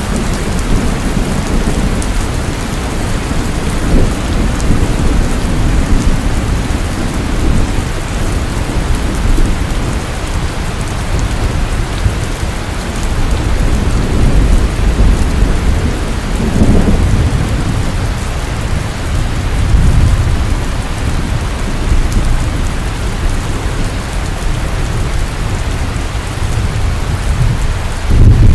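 Steady heavy rain falling on a surface, with a low rumble that swells and fades several times.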